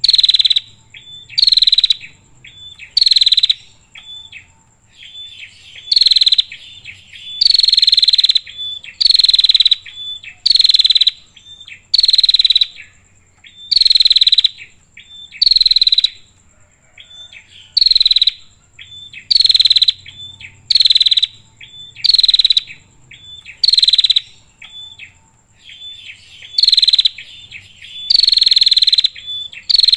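Female prenjak (prinia) calling: a loud, harsh chirp repeated every second or two, with fainter short notes in between, over a faint steady high insect buzz. This is the female's call that draws in males.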